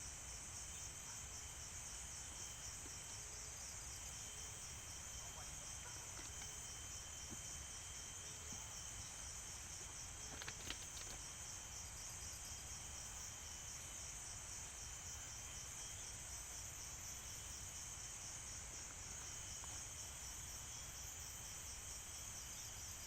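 Forest insects chirring, a steady high-pitched drone with a fine rapid pulse, over a fainter steady high tone. A couple of short clicks sound about halfway through.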